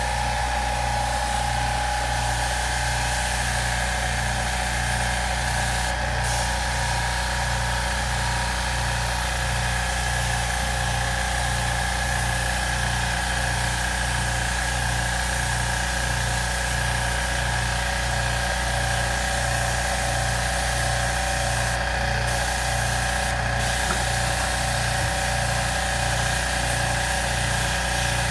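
Electric washing pump of an air-conditioner cleaning sprayer running steadily, with a low hum pulsing a little over once a second, steady whining tones and a hiss of spray. It is washing the unit's aluminium fins and blower rotor.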